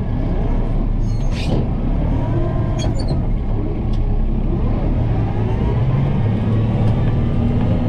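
Kubota M7060 tractor's four-cylinder diesel engine running steadily, its pitch rising and falling as it works. There are two short, sharp clanks, about a second and a half and three seconds in.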